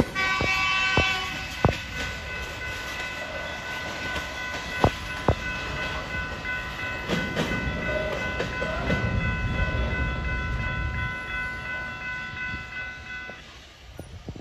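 Freight cars of a BNSF local train rolling over the rails, with sharp wheel clacks a few times and a rumble that swells midway. Over it runs a steady high ringing of several tones that stops about a second before the end.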